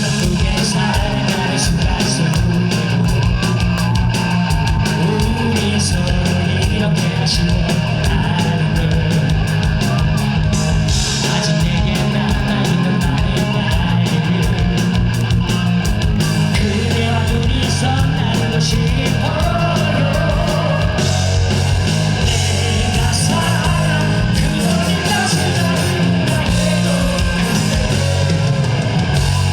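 Live rock band playing loudly and continuously.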